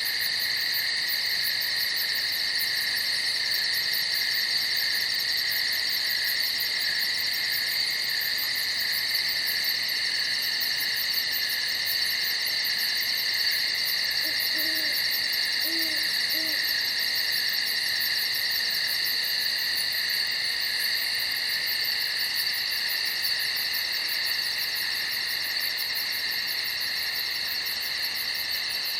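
Dense chorus of crickets chirping steadily at night, several high, ringing trills layered together. A few faint, short low calls sound briefly about halfway through.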